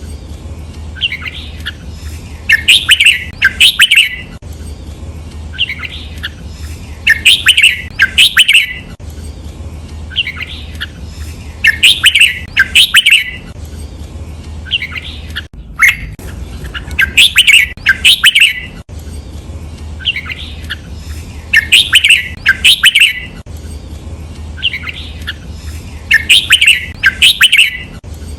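Red-whiskered bulbul singing the same phrase over and over, a loud quick cluster of whistled notes roughly every four to five seconds, over a steady low hum.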